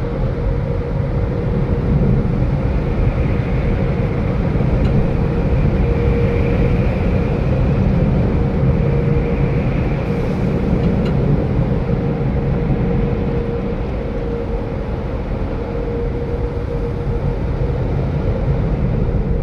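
Automatic car wash machinery running: a steady, loud rushing noise with a constant hum.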